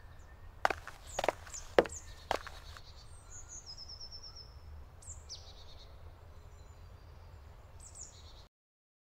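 Woodland songbirds chirping, with one short trill, over a steady low background. Four sharp knocks come in the first two and a half seconds, and the sound cuts off shortly before the end.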